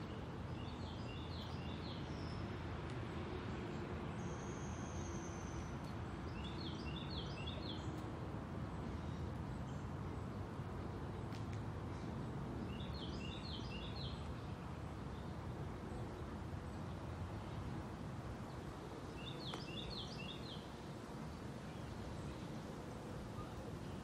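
A songbird repeating a short phrase of quick high notes four times, about six seconds apart, over a steady low outdoor background noise.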